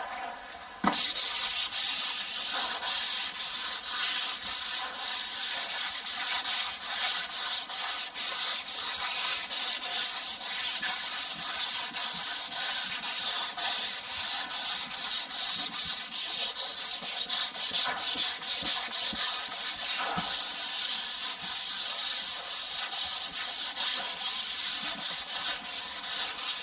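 Sandpaper being rubbed over dried GIB finishing compound on a patched plasterboard wall: a loud scratchy hiss in quick back-and-forth strokes, about two or three a second, starting about a second in.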